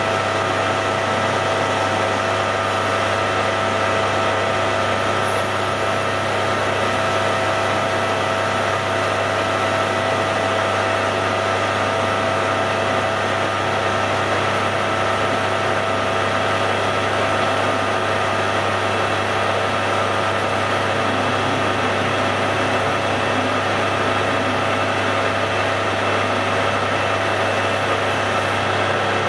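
Hare and Forbes AL335 metal lathe running steadily, its motor and gearing giving an even hum with several steady tones over it.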